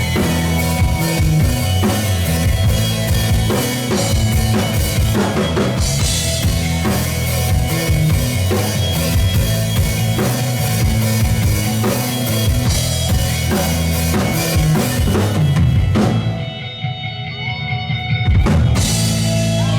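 Live rock band playing an instrumental passage with a pounding drum kit and heavy bass. About three-quarters through the sound thins out briefly, then the full band comes back in with a loud hit near the end.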